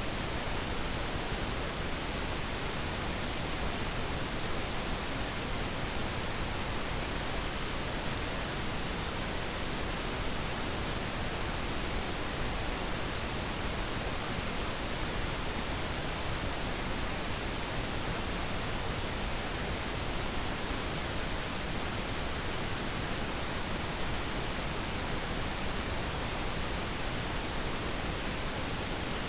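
Steady pink noise: an even, unchanging hiss across the whole range, with no other sound.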